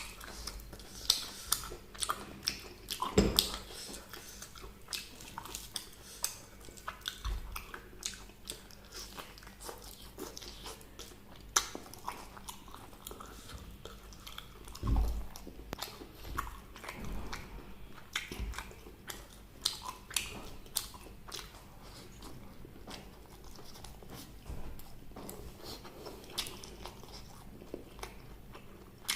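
Close-miked eating of crunchy fried chicken and vegetables: bites that crunch and chewing with many sharp mouth clicks. The bites are loudest and thickest a second or so in and again about halfway through.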